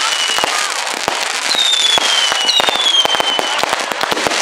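Fireworks going off: dense rapid crackling, with two whistling fireworks, each a high whistle about a second long falling slightly in pitch.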